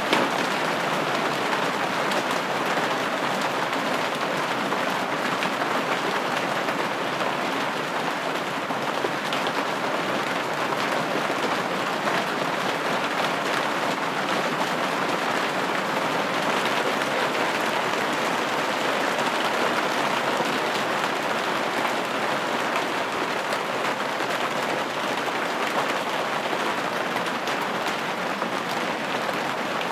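Steady rain pattering on a window, a constant dense patter of drops with no pauses.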